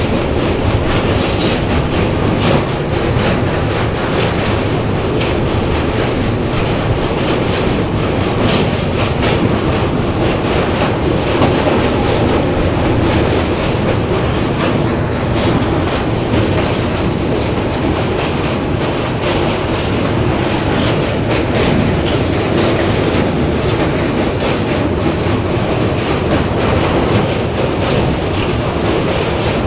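Passenger express train running at speed, a steady loud clatter of wheels over the rails, heard as it crosses the Ram Ganga river bridge.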